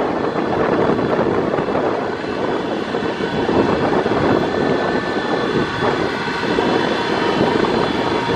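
Southport Pier train running along the pier: a steady rumble of wheels on the track, with a faint high whine over it.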